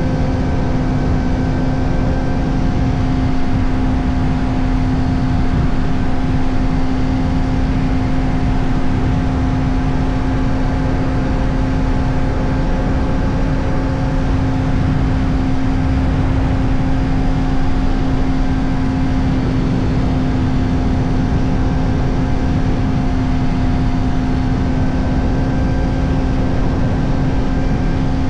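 Kawasaki Ninja ZX-4RR's 399 cc inline-four holding steady high revs through an Arrow Indy Race Evo titanium exhaust with its dB killer fitted, over a heavy rush of wind noise on the microphone.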